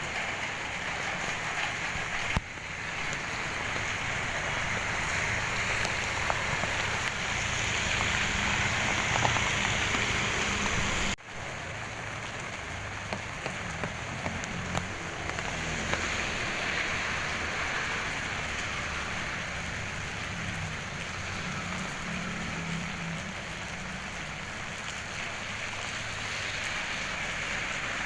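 Rain falling steadily, a continuous even hiss of drops on surfaces, with sudden jumps in level about two seconds in and again about eleven seconds in.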